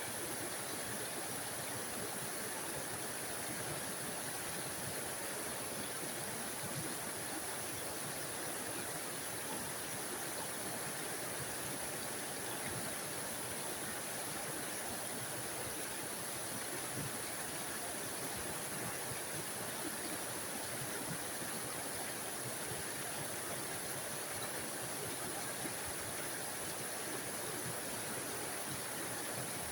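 A small forest waterfall splashing and rushing steadily, an even water noise with no breaks.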